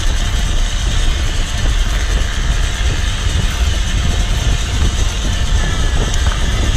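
Wind buffeting the microphone of a GoPro on a moving bike, a steady rumbling rush with road noise underneath.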